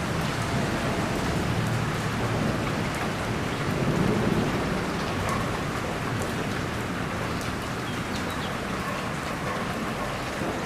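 Steady rain falling during a thunderstorm, with a low rumble of thunder swelling about four seconds in.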